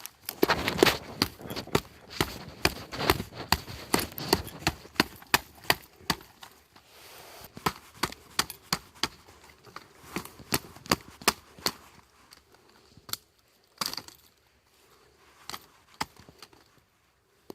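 A rapid, irregular series of sharp knocks and cracks, dense for about twelve seconds and then thinning to a few single knocks.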